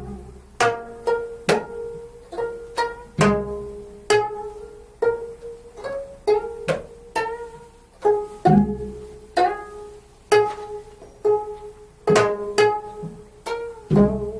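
Solo gayageum, the Korean plucked zither, playing sparse single notes, each plucked sharply and left to ring and fade, about one to two notes a second.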